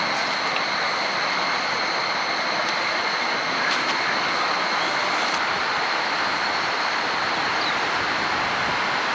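Strong wind rushing steadily, with a faint high steady whine running through it.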